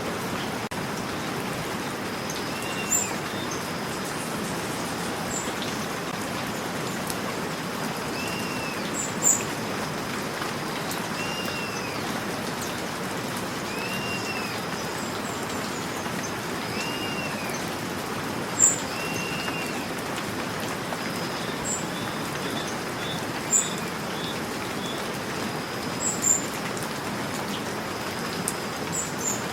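Steady rain falling, with a bird calling a short rising-and-falling note every few seconds and a few sharp, high chirps or drips standing out.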